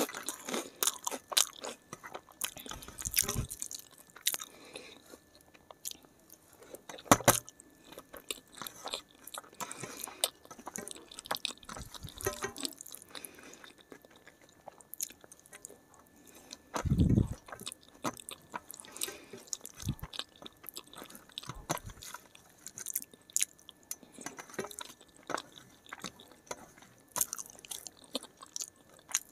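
Close-miked chewing and crunching of papad and rice eaten by hand, with many short crackles and clicks throughout. There are a few duller thuds, the loudest about seventeen seconds in.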